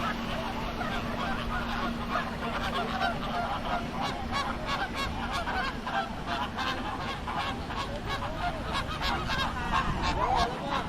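A flock of birds calling together, many short calls overlapping into a continuous chorus.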